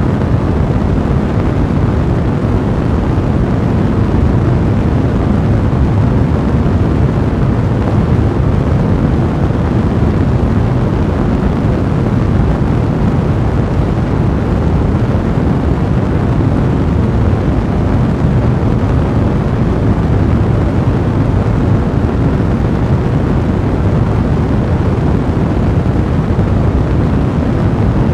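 Fire blazing: a steady, dense rumble of flame noise, heaviest in the low end, with fine crackle running through it.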